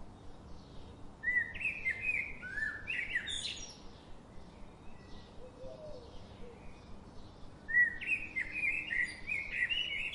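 A songbird singing two quick warbling phrases, one about a second in and another near the end, with fainter chirps of other birds between them over a steady background hiss of the forest.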